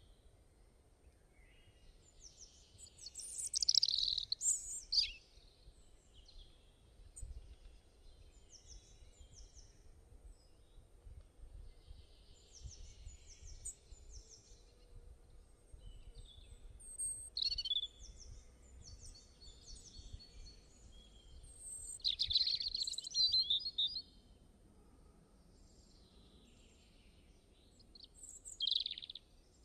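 Several birds calling and chirping, short high notes repeating throughout, with a few louder bursts of song over a faint low rumble.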